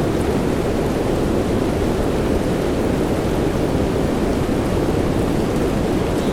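Steady rain sound blended with white noise for sleep, an even, unbroken deep rushing that is heaviest in the low end, with a few faint high ticks.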